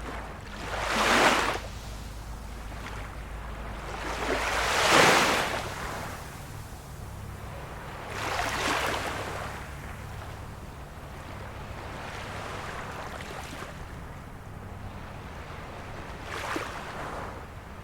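Small waves of a calm sea washing in, four separate swashes a few seconds apart, the second the loudest.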